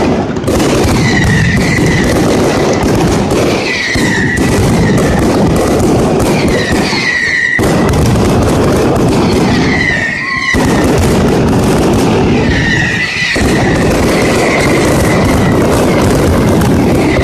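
Valencian mascletà: a dense, unbroken barrage of firecracker bangs and crackles, with shrill whistling firecrackers screaming every couple of seconds.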